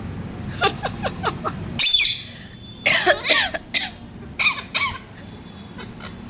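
Pet parrot calling in short chirps and squawks, several in quick succession, with one louder high screech about two seconds in and more bursts of calls after it.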